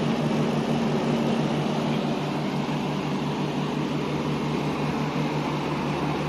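Precision air-conditioning unit running with its compressor and fans on, a steady hum over even airflow noise. The compressor is back in operation, drawing about 15 amps, which the technician judges okay with margin to spare.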